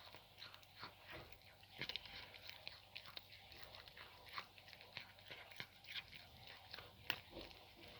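A cat chewing cooked chicken neck, with faint, irregular crunches and clicks of bone.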